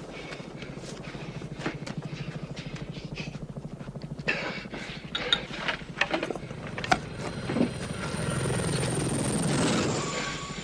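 Helicopter rotor chopping in a fast, even beat, with several sharp cracks over it from about four seconds in and a thin high whine joining near the end.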